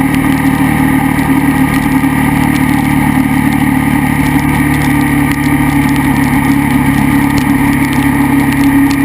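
KTM 990 SMR's V-twin engine running at steady revs while the motorcycle is ridden, a loud, even drone with no rise or fall in pitch.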